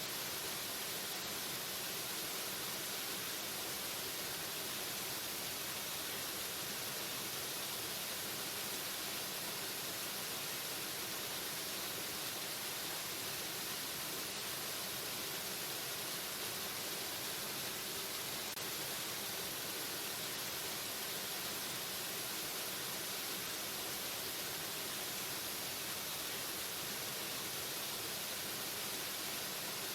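Waterfall: a steady, unbroken rush of falling water with a hissy edge.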